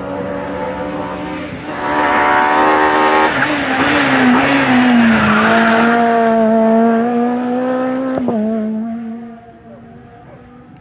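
A rally car at full throttle on a special stage, coming up loud about two seconds in and passing, its engine note dropping once, then steady, with a gear change near the end as it fades away.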